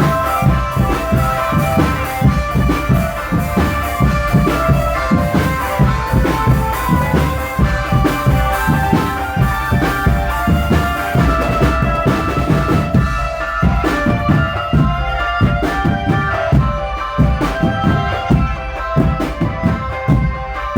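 Marching drum band playing: snare and bass drum strikes keep a steady beat under a sustained melody on pitched instruments.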